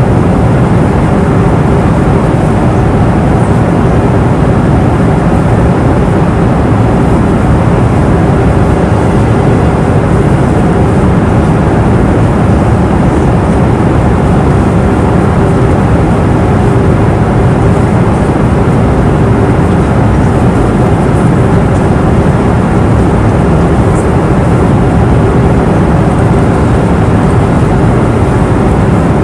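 Steady cabin noise of an airplane in flight: an even rush of engine and airflow noise, heaviest in the low end, with a faint steady hum running through it.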